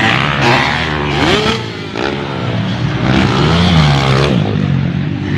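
Dirt bike engines revving during an enduro race, their pitch rising and falling several times as the riders work the throttle.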